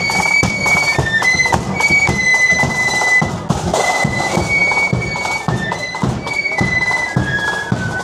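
Marching band playing a tune: a high, shrill melody moving from note to note over regular drum beats.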